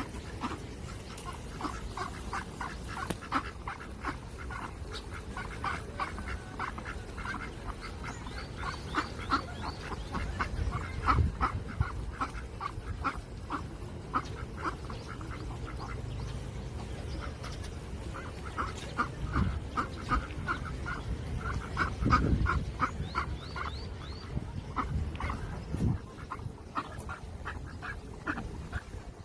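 Ducks quacking in rapid runs of short calls, with a few brief pauses and occasional low thumps.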